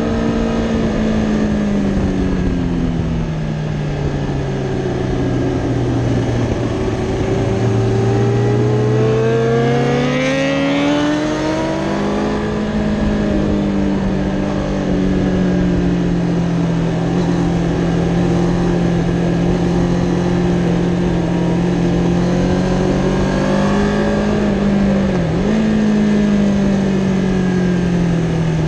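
Kawasaki Ninja ZX-10R's inline-four engine heard from on board over a steady rush of wind noise. Engine speed falls for several seconds, climbs sharply about ten seconds in as the throttle opens, then holds steady, dipping briefly once and easing off again near the end.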